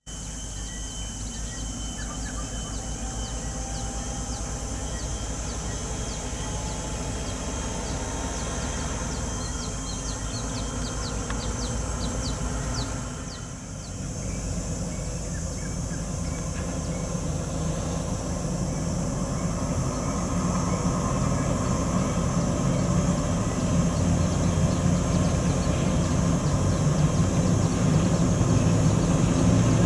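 Heavy truck diesel engine running, with a brief drop about halfway through, then growing steadily louder toward the end.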